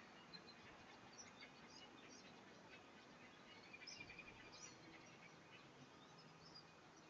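Faint birds chirping over a steady low background hiss, with a brief rapid run of chirps about four seconds in.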